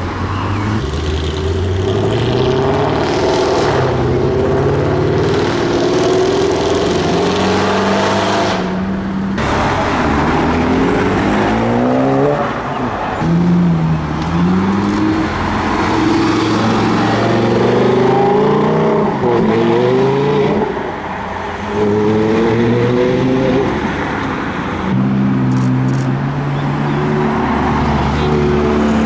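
Performance car engines accelerating away, each exhaust note rising in pitch as it revs and dropping back at the gear changes, with one car following another.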